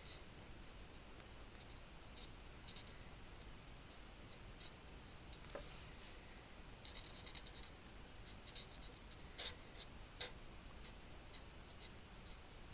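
Faint scratching of an alcohol marker's tip stroking over cardstock, in short light strokes at an irregular pace, some coming in quick clusters.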